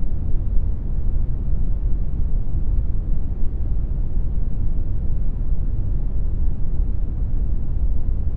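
Steady brown noise generated in Audacity: an even, deep rumbling hiss with most of its weight in the bass and little treble, unchanging throughout.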